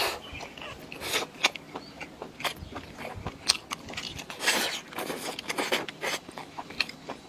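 A person biting and chewing food close to the microphone, with crunches and many sharp clicks.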